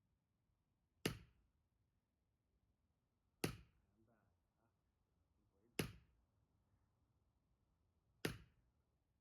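Firewood being split with an axe: four sharp strikes on the log, evenly spaced about two and a half seconds apart.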